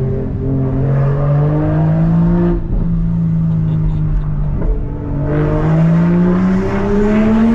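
Toyota GR Supra (Mk5) B58 turbocharged inline-six, fitted with a big-turbo upgrade, pulling under acceleration. The revs climb, drop at an upshift about two and a half seconds in, hold steady, then climb again over the last couple of seconds.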